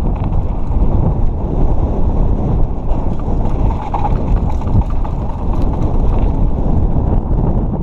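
Wind buffeting the microphone over a steady rumble from a mountain bike descending a dirt trail.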